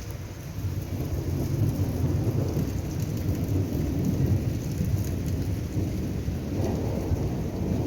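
Stormy rain falling, under a deep, continuous rumble of thunder that grows louder about a second in.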